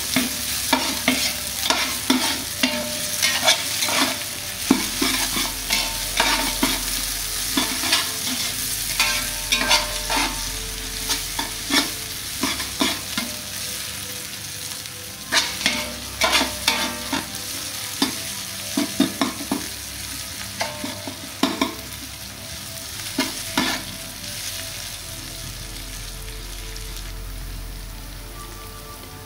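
Chopped onions, bay leaves and whole spices sizzling in oil in a large metal pot, the tempering for kadhi, while a metal slotted spoon scrapes and clinks against the pot as they are stirred. The stirring strokes come thick at first, then in clusters, and stop for the last few seconds, leaving only the steady sizzle.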